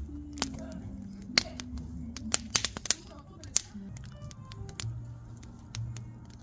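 Firewood burning in a campfire, crackling with irregular sharp pops and snaps, a few louder ones clustered between about one and four seconds in, over soft background music with low held notes.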